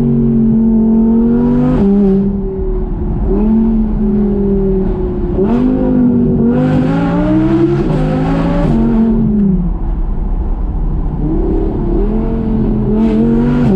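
Audi R8 V10 Plus's 5.2-litre V10 through a Quicksilver aftermarket exhaust, valves closed in comfort mode, accelerating hard: the engine note climbs and drops back several times as it revs and shifts. It is loudest about two-thirds through, then falls away in pitch.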